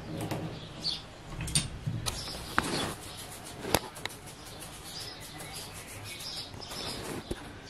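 Small birds chirping, with scattered sharp clicks and knocks, the loudest a little before and after the middle.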